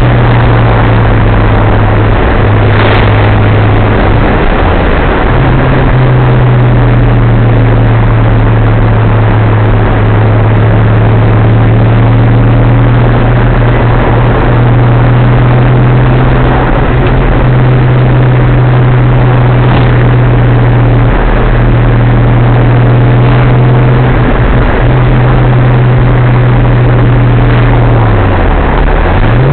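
Datsun 280ZX Turbo's turbocharged inline-six heard from inside the cabin, droning steadily at cruising speed over loud road and wind noise. Near the end the engine note drops and then climbs back up.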